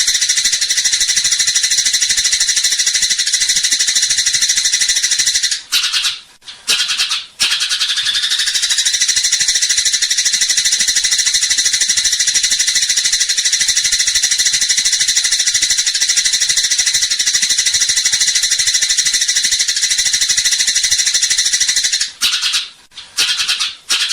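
Eurasian tree sparrow ('burung gereja') in fighting call, a dense, rapid, unbroken stream of high chirps, loud throughout, with two brief breaks about six and twenty-two seconds in.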